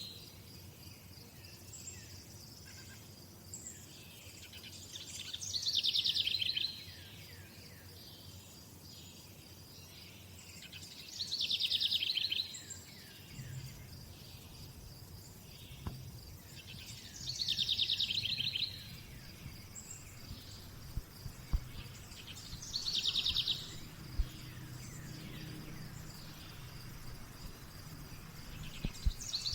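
A songbird singing the same short, buzzy trilled phrase over and over, about every six seconds, over a steady high-pitched insect trill.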